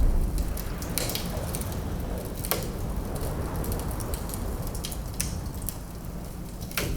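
Wood fire crackling, with a few sharp pops, over a steady low rumble of wind.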